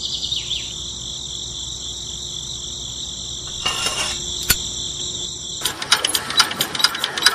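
A steady high-pitched drone, with a light click near the middle as the starting crank is handled, cuts off about two-thirds through. A miniature model diesel engine then starts up and runs with a fast, rattling clatter of rapid clicks.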